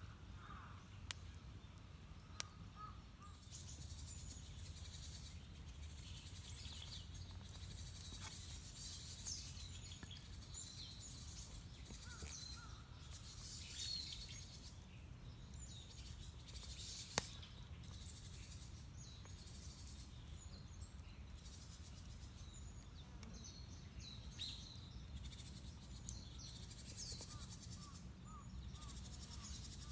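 Small birds chirping and calling on and off over a steady low rumble, with a few isolated sharp snaps, the loudest about seventeen seconds in.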